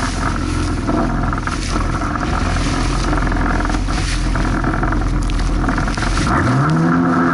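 Jet ski engine running under way, with bursts of water and wind noise over it. About six seconds in, the engine revs up and holds at a higher pitch.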